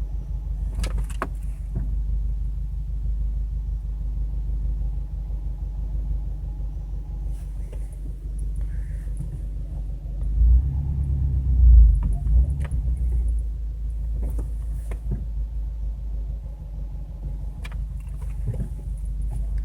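Subaru WRX's turbocharged flat-four engine running steadily with a low rumble that swells for a couple of seconds about halfway through. Several sharp clicks or pops come at irregular moments, the kind of popping and creaking from the front that appeared after a turbo replacement.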